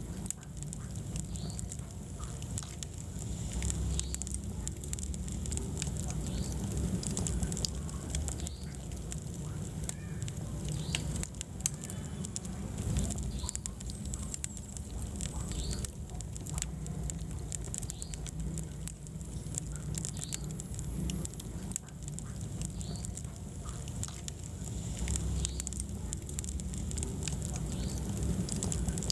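Wood fire burning in a fireplace: scattered crackles and pops over a steady low rumble of the flames.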